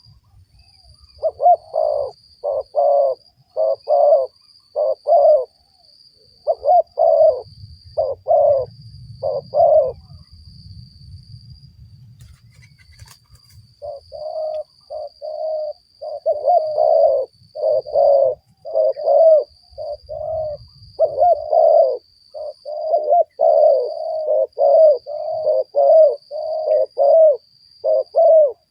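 Spotted doves cooing in runs of short, low coo notes. The calls break off for a few seconds around the middle, then come thick and fast toward the end. A faint steady high-pitched whine runs underneath.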